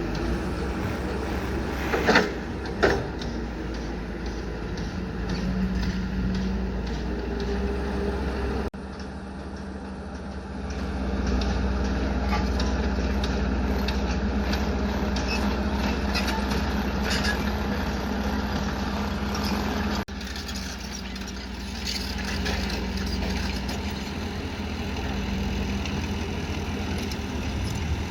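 Excavator's diesel engine running steadily, with two sharp clanks about two and three seconds in. The engine sound changes abruptly twice, near a third of the way and two thirds of the way through.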